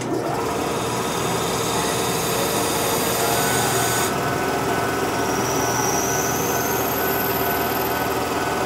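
Steady mechanical running noise from a Nankai Koya Line electric train standing at the platform. It starts abruptly and goes on evenly with a few held tones, with faint high whines partway through.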